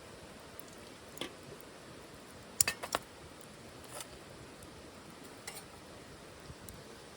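Light metallic clinks and knocks, as gear is handled at a titanium wood stove. There is a single click about a second in, a quick run of about four louder clinks near the middle, then a couple of fainter ones, all over a steady low hiss.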